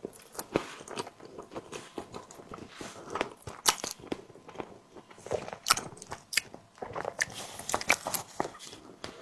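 Close-miked eating of a tiger skin dessert: irregular bites, chewing and sharp wet mouth clicks, a few of them louder.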